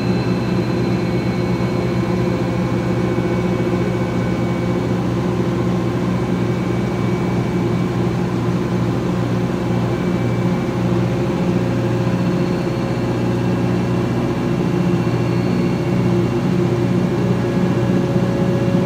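2006 GE Profile top-loading washer in its final spin: a steady motor hum and drum whir, with a whine that slowly rises in pitch as the spin speeds up.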